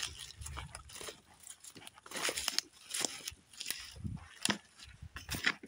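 Footsteps pushing through brushy undergrowth, with irregular crunches, twig snaps and rustles.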